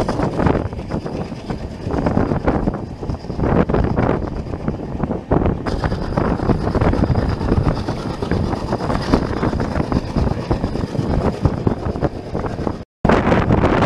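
Passenger train running along the track as heard from an open coach door: a steady rumble with wheel clatter, with wind on the microphone. The sound cuts out for a moment near the end.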